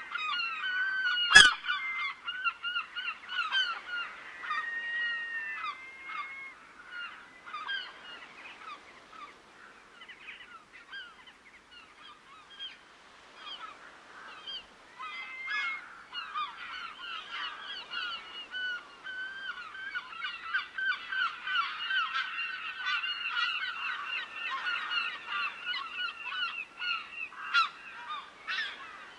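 A flock of water birds calling continuously, many short calls overlapping, thinning out briefly near the middle and growing busier again in the second half. A single sharp click about a second and a half in is the loudest sound.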